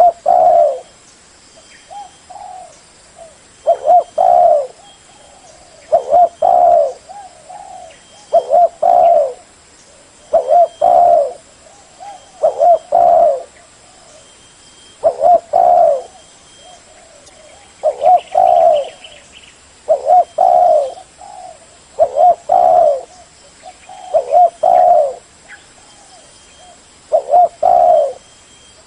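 Spotted dove cooing: a short phrase of a few low, hooting notes repeated about every two seconds.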